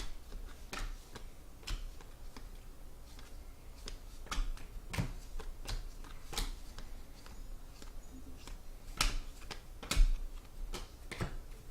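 Trading cards being handled on a table: scattered light clicks and taps, with a couple of sharper taps near the end.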